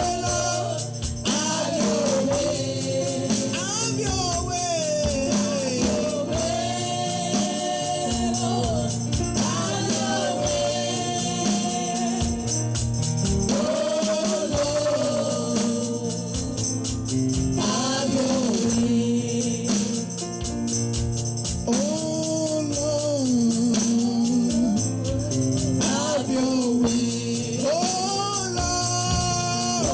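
Gospel worship singing with voices holding long, gliding notes over a steady band accompaniment.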